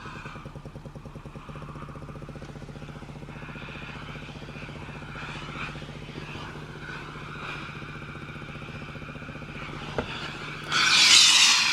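Steam-generator iron's base unit running with a steady buzzing hum like a small motor or pump. Near the end comes a loud hiss of steam being released. The owner was told by the maker's support that the steam noise is normal and the motor-like noise is normal at first.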